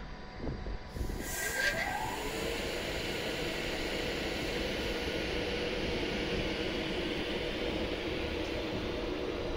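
An Avanti West Coast express train passing through the station, a steady rushing rumble with a brief rising whine about a second in and a held tone under it.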